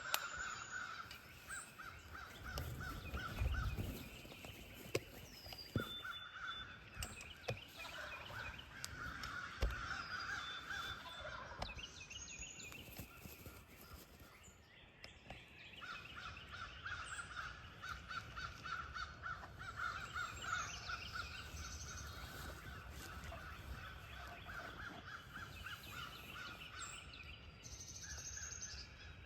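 Wild turkeys gobbling in repeated bursts, with songbirds chirping and gusts of wind on the microphone.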